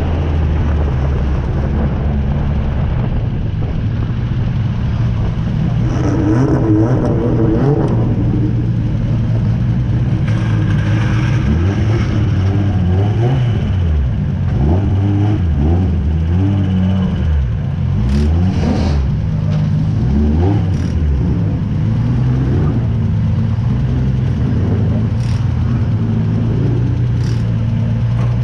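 Drift car's engine heard from on board, running at low revs while the car creeps along. Its pitch rises and falls repeatedly through the middle with small throttle changes, then settles to a steady idle near the end once the car has stopped.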